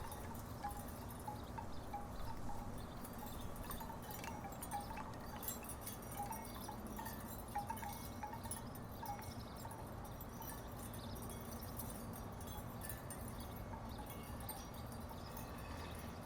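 Wooden tiki wind chimes knocking together irregularly in the breeze, short wooden clacks at much the same pitch. They come more often in the first half and thin out after that, over a faint steady low background hum.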